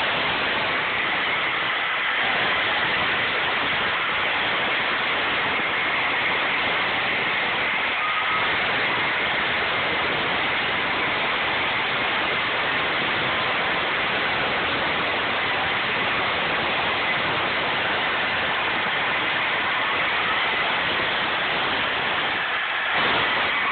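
Hilti power saw running continuously at a steady speed, a loud even noise with a faint high whine.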